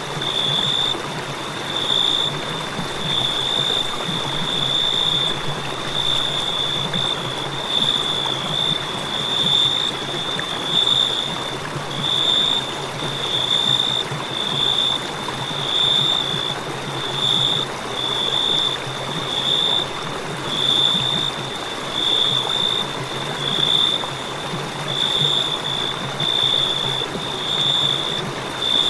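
Crickets chirping: a high-pitched trill pulsing in bursts about once a second, over a steady hiss of background noise.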